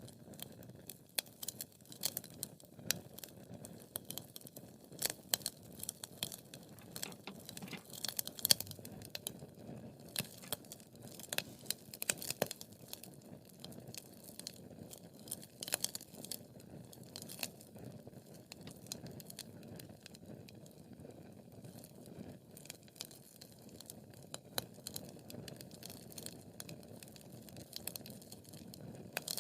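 Wood fire crackling and popping: irregular sharp snaps over a low, steady rumble of the flames, busier in the first half and thinning out later.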